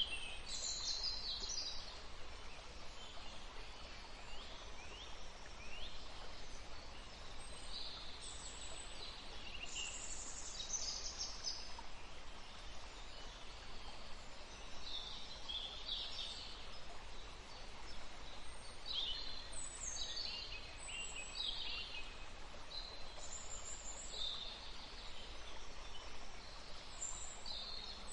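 Several songbirds chirping and singing in short, high-pitched phrases, coming every few seconds, over the steady rush of a forest stream.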